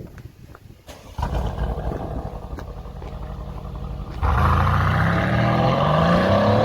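Mercedes-AMG C63 S twin-turbo V8 engine, which comes in suddenly about a second in and runs steadily. About four seconds in it gets louder and revs up, its pitch climbing.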